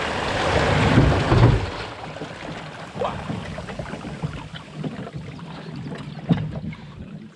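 Small aluminium punt running off its trailer into the water: a loud rush of splashing water for about two seconds, then quieter sloshing and scattered knocks as water pours into the boat and swamps it.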